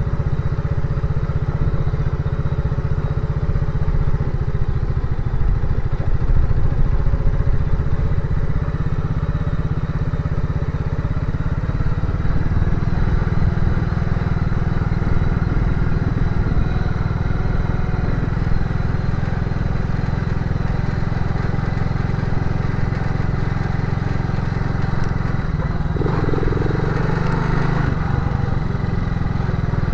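Motorcycle engine running steadily at an even speed, loud and low. A brief extra sound joins near the end.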